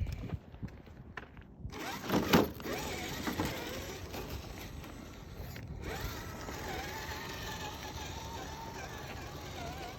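Axial SCX10 III RC crawler's electric motor and gearbox whining as it drives, the pitch wavering slightly with throttle, from about six seconds in. Before that, scraping and a loud bump about two seconds in, as the truck works over rough ground.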